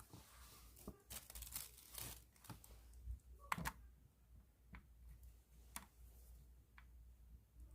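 Faint handling of a pen in a plastic bag: crinkling plastic through the first two or three seconds, then a few separate sharp clicks.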